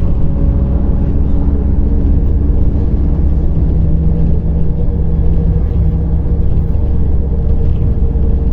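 Cabin of a MAZ-105.465 articulated city bus on the move: steady low engine and road rumble, with a droning tone that comes in about three seconds in and fades after a few seconds.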